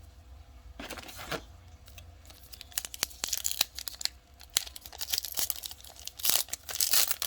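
A trading card pack wrapper being torn open and crinkled: a short tearing rip about a second in, then a long stretch of crackling and crinkling with many sharp clicks, loudest near the end.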